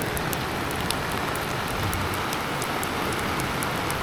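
Steady rain with many small drops ticking.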